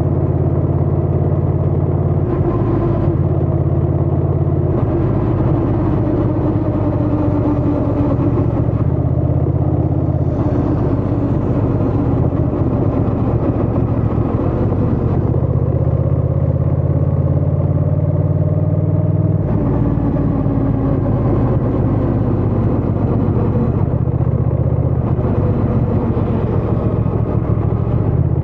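Honda Rebel 1100's parallel-twin engine and exhaust running under way at a steady pace. The engine note shifts a few times, with a slow rise in pitch about halfway through.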